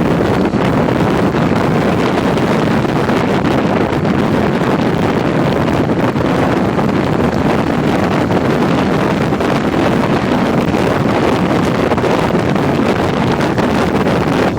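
Steady wind rushing over the microphone of a motorcycle on the move, with the bike's running noise beneath it.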